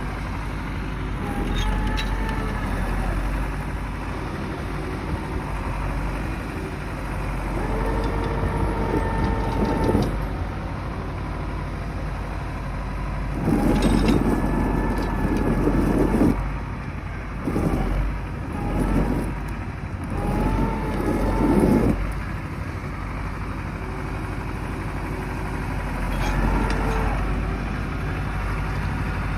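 YuMZ wheeled tractor's diesel engine running steadily, revved up in several louder surges, most strongly through the middle.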